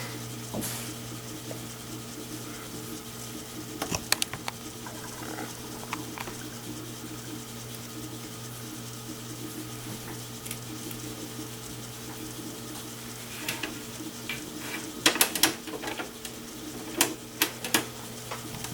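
Desktop PC running with a steady hum of fans and drive. Scattered sharp clicks break in about four seconds in and again several times near the end.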